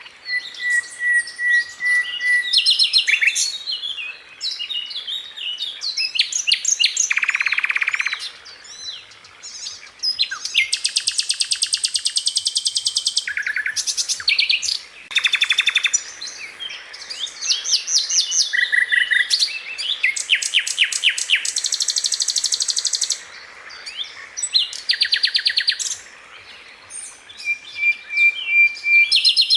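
A sikatan londo flycatcher sings in fast rattling trills and high buzzy runs, mixed with short whistled notes, in bursts of a few seconds with brief pauses between them. This is the rolling, sharp 'roll' and 'tembakan' (shot) song used to tutor cage birds.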